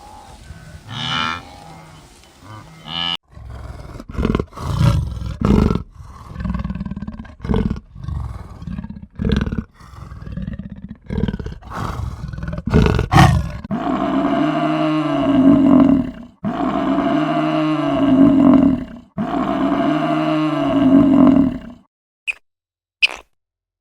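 A large animal calling: a run of short, low grunting calls, then three long drawn-out bellowing calls of about two and a half seconds each, with a few sharp clicks near the end.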